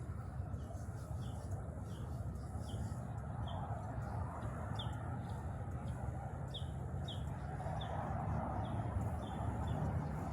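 A bird calling in a long series of short, high, downward-sliding notes, about two a second, over a steady low rumble.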